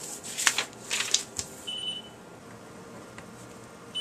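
A few sharp clicks and rattles in the first second and a half, then one short, high electronic beep.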